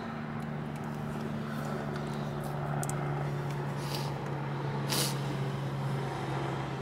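Steady low hum of a car's engine heard inside the cabin, with a couple of brief soft rustles about four and five seconds in.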